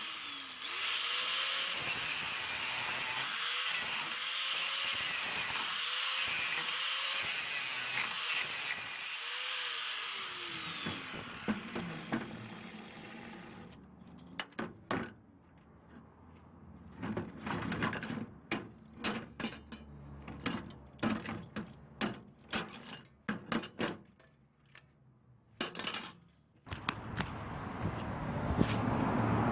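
A power tool runs for about thirteen seconds, its pitch dipping and rising again every second or two as it loads and unloads. It then stops, and scattered knocks and clatter follow, typical of scrap metal being handled. Near the end a rushing noise builds.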